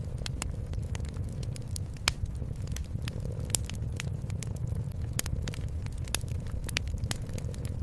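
Fireplace crackling, with irregular sharp pops scattered through it, over a steady low purr from a cat.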